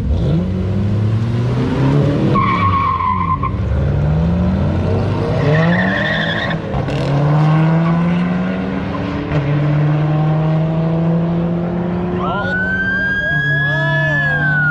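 Car engine revving and accelerating in rising runs, with tires squealing: short squeals about two and six seconds in and a longer wavering squeal near the end.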